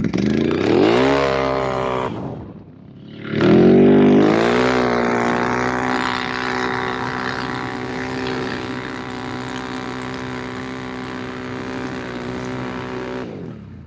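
ATV engine revving: a short rev up and back down, then a second rev that climbs and holds at high revs for about nine seconds before falling away near the end.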